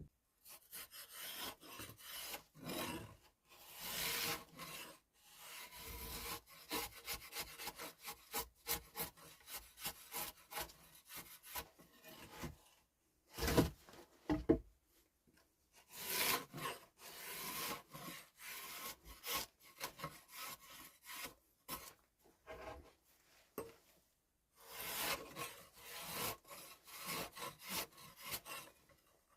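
Hand tool scraping or sawing at wood in runs of quick rasping strokes, several a second, stopping and restarting every few seconds, with a couple of louder knocks about halfway through.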